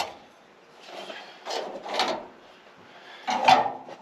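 Metal parts and tools scraping and sliding on a workbench in three short bursts, the loudest near the end.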